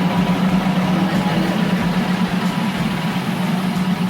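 A vehicle's engine running steadily, a constant low drone with road or engine noise behind it.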